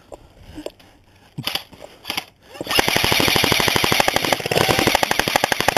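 Airsoft rifle firing, with a few single shots at first. About two and a half seconds in it opens up in a long, rapid full-auto burst that runs nearly to the end.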